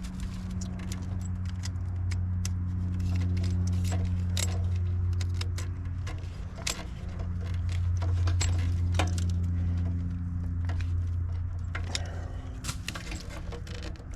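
Metal hand tools clinking and rattling as connections are worked and tightened, many sharp irregular clicks over a steady low machine hum.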